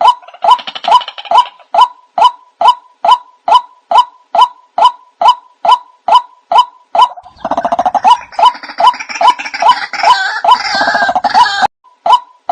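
White-breasted waterhen (ruak-ruak) calls played as a bird lure: short calls repeating about twice a second. More than halfway through, a busier stretch of overlapping calls joins in, then cuts off abruptly shortly before the regular calls resume.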